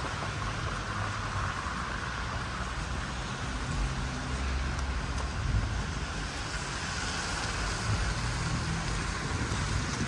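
Steady city street traffic noise: an even hiss of passing vehicles over a low, uneven rumble.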